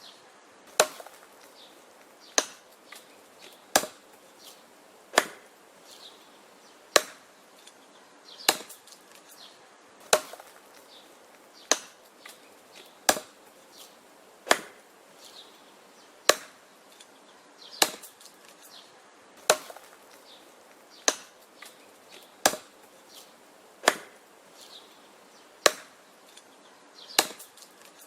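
An axe chopping wood in steady, even strokes, about one sharp chop every second and a half, each followed by a few faint ticks.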